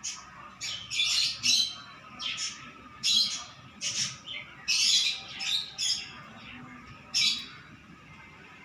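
Baby cockatiel squawking: about a dozen short, harsh calls in irregular succession, stopping shortly before the end.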